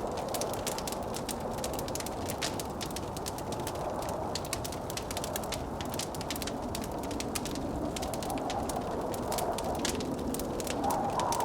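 Wood fire crackling with frequent small pops, over the steady rush of blizzard wind.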